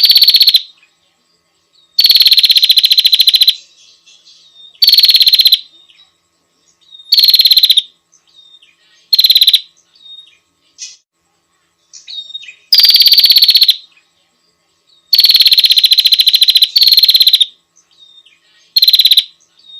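Female prenjak (prinia) calling: about eight loud, rapid, buzzy trills a second or two apart, each a fast run of notes that drops slightly in pitch, with soft chips between them. This is the female's call to a male.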